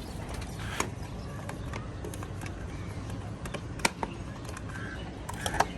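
A few sharp clicks and knocks as bird feeding pots are handled, over a steady low background hum. A bird chirps briefly near the end.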